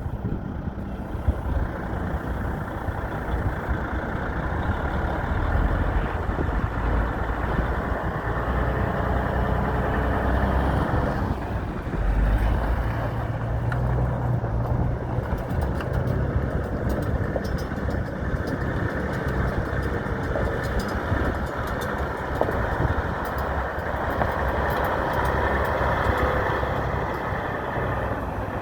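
Diesel engine of a 2006 Kenworth T800 semi truck running with a steady low rumble, its pitch and level shifting once about twelve seconds in.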